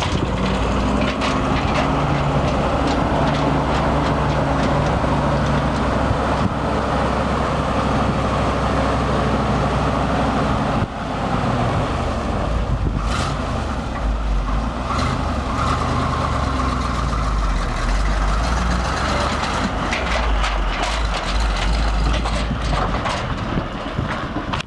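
1971 Chevrolet C-60 grain truck's engine running steadily, with a brief sudden drop in level about eleven seconds in.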